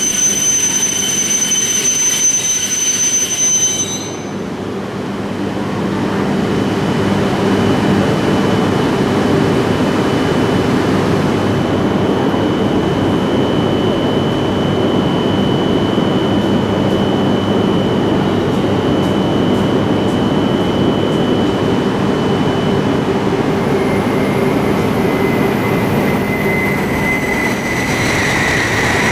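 Shinkansen train noise. A high electric whine cuts off about four seconds in, then a steady rushing rumble builds and holds, and a new whine comes in near the end.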